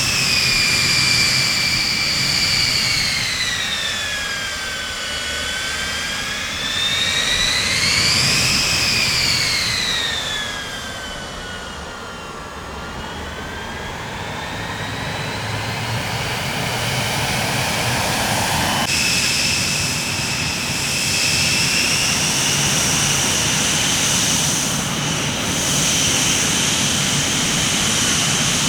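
Jet airliner engines with a high turbine whine over a steady rumble. The whine falls, rises again about eight seconds in, and sinks once more. It changes abruptly about two-thirds of the way through and then holds high and steady.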